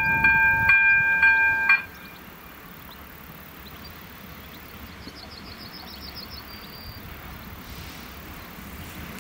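Level crossing's electronic warning bell ringing in a steady repeated tone, then cutting off suddenly about two seconds in as the crossing switches off after the train has passed. After that there is quiet outdoor background, with a short rapid bird trill about five seconds in.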